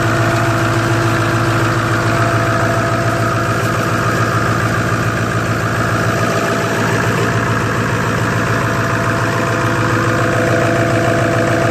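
Ford 6.0 Powerstroke turbo-diesel V8 idling steadily about a minute after a cold start, running smoothly, which the owner credits to Archoil additive.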